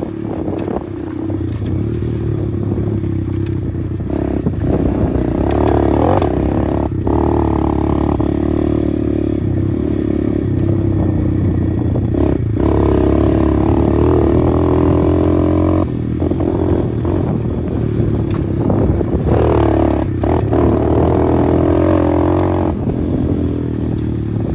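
125cc pit bike's single-cylinder engine running under throttle while being ridden, its pitch stepping up and down with short dips every few seconds.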